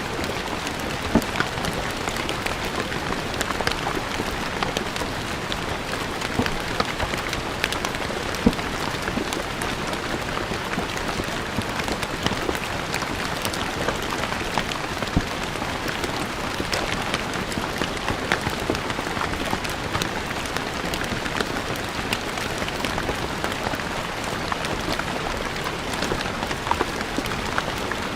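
Steady rain falling on a stone surface, an even hiss with many individual drops ticking and splashing close by.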